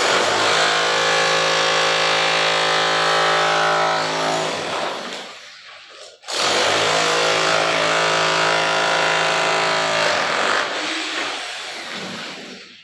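A handheld electric power tool running in two long bursts of about five seconds each, a steady mechanical drone that tails off at the end of each burst before stopping.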